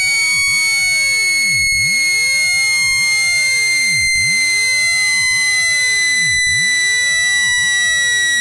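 Synthetic speaker-cleaning tone meant to shake water and dust out of a phone speaker. A loud, steady high tone slowly sinks in pitch, while fainter tones sweep down to a low hum and back up about every two and a half seconds.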